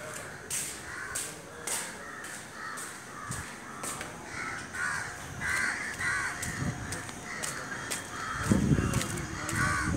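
Harsh bird calls repeating quickly, many birds calling over one another and growing louder from about four seconds in. A low rumble near the end.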